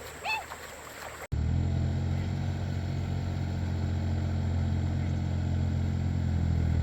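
A tractor engine running steadily at an even speed, coming in abruptly about a second in.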